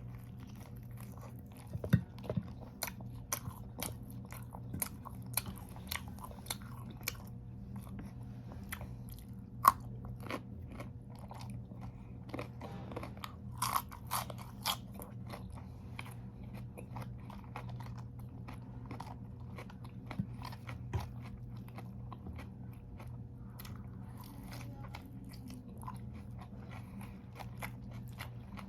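Close-up crunching and chewing of raw lettuce and carrots: many sharp, crisp crunches, coming thick and fast for the first half and more spread out after, over a faint steady low hum.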